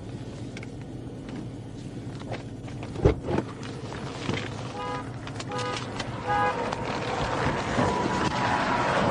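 Roadway traffic noise that grows louder over the last few seconds, with several short groups of electronic beeps in the middle and a single knock about three seconds in.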